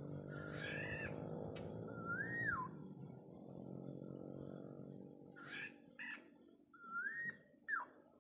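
Black-naped oriole calling: fluting whistled notes that rise and fall, mixed with short harsh nasal squawks. A low steady hum runs under the first few seconds and then fades.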